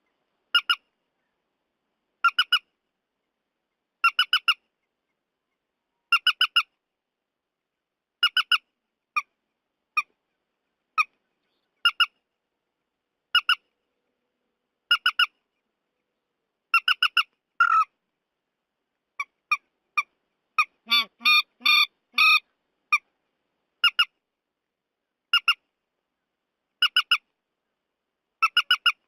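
Recorded calls of the trích ré, a rail-family waterbird: short, harsh squawking notes in pairs and triplets about every two seconds, with a quick run of notes about two-thirds of the way in. It is a looped call recording used as a lure for night bird-netting.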